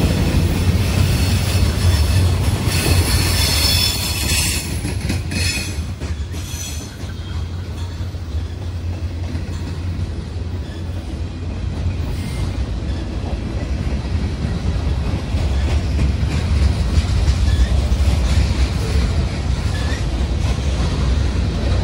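Train rolling past, its wheels rumbling steadily on the rails. A high wheel squeal comes in about two seconds in and lasts a few seconds.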